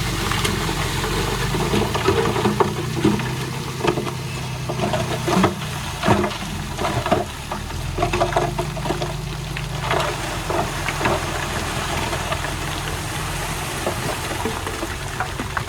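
Heavy diesel earthmoving machine running steadily, with repeated metallic clanks and rattles through most of the first ten seconds that then thin out.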